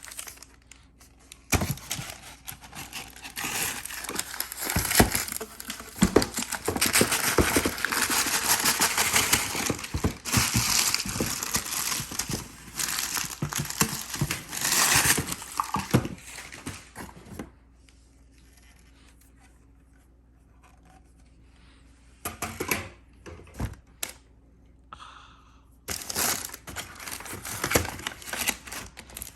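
Packaging being handled during an unboxing: plastic wrap and packing material crinkling and tearing. It comes in long stretches, with a pause of several seconds past the middle that holds only a few brief handling sounds.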